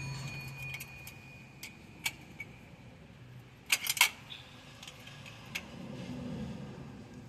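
A few sharp metallic clinks and taps, the loudest cluster about halfway through, over a faint steady low hum.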